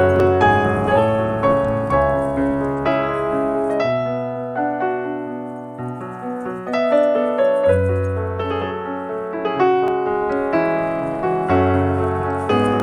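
Background piano music: a steady stream of notes over a low bass line.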